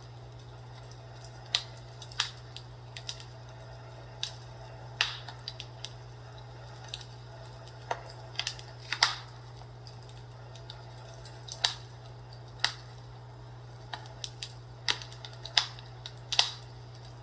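Wood fire crackling, with irregular sharp pops and snaps every second or so over a steady low hum.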